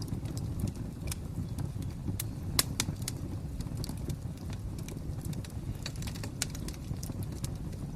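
Wood fire crackling: irregular sharp pops and snaps over a low steady rumble of flames, with one louder pop a little over two seconds in.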